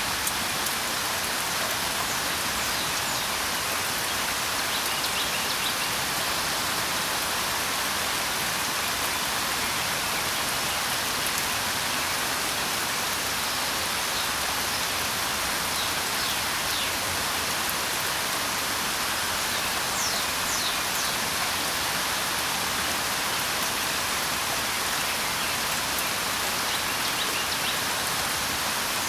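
Steady rain falling, an even hiss with no change in level, with a few faint, brief bird chirps high above it now and then.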